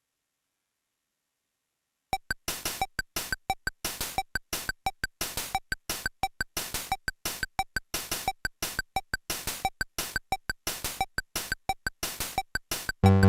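Casio VL-Tone's built-in rhythm accompaniment playing a steady pattern of short, clicky noise hits, starting about two seconds in. Just before the end a held synth note comes in over it.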